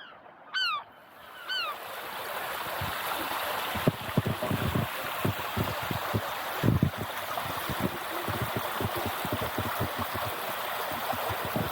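Three short seagull calls in the first two seconds, then a steady rush of coastal wind, with gusts buffeting the microphone.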